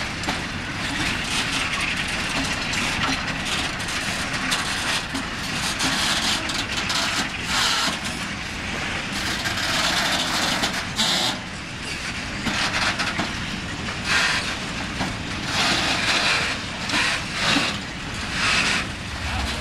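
Tank wagons of a freight train rolling past, wheels running and clattering on the rails as a continuous rumble, with irregular louder bursts of higher-pitched rattle.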